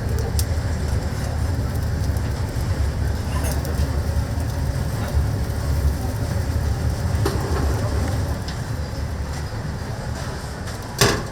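Commercial kitchen noise: a steady low rumble with scattered small clicks, and one sharp clatter near the end.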